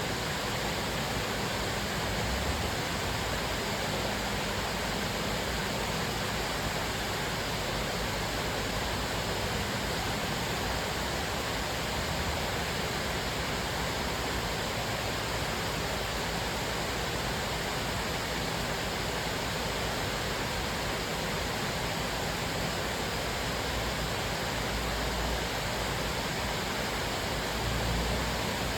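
Cascading waterfall: a steady, even rush of falling water with a low rumble underneath.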